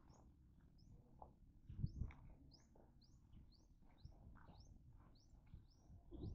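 Faint bird chirping over and over, a short rising chirp about three times a second. A few low thumps come through, the loudest about two seconds in.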